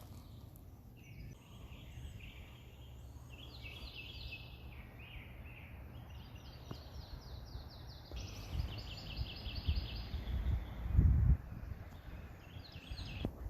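Songbirds singing: short phrases of repeated high notes and fast trills, one after another, over a low rumble, with a dull thump about eleven seconds in.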